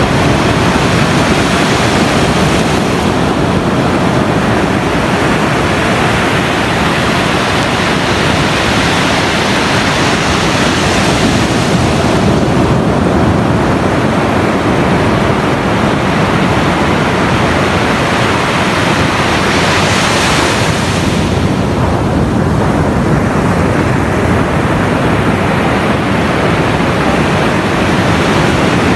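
Ocean surf breaking on a beach, a continuous loud wash of waves that swells and eases, with a brighter wave break about twenty seconds in.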